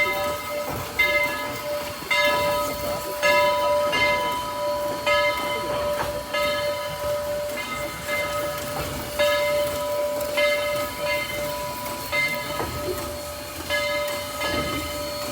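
A railroad bell ringing about once a second, each strike ringing on into the next, with rail noise underneath.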